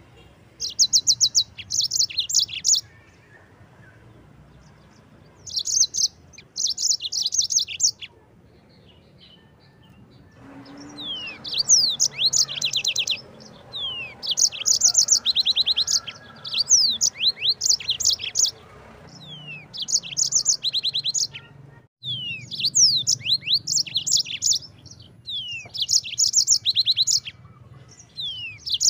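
Yellow-fronted canary (Mozambique canary) singing in phrases of rapid, high trills about one to two seconds long, separated by short pauses. From about ten seconds in, the song comes more continuously, with quick falling whistled notes mixed among the trills.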